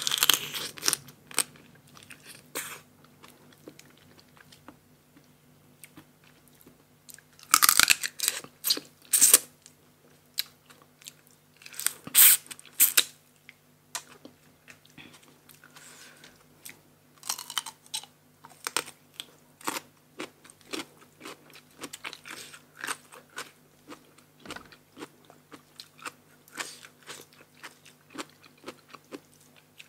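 Close-miked crunching and chewing of crisp raw vegetables eaten with spicy papaya salad. Bites come as loud clusters of crunches between steady chewing, over a faint steady hum.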